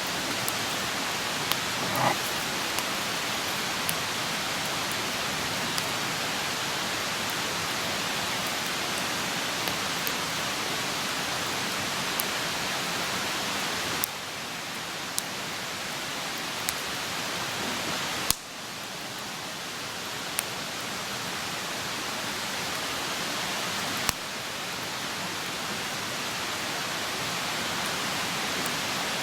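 Wood campfire burning on open ground: a steady hiss with scattered sharp crackles and pops, and three louder snaps in the second half.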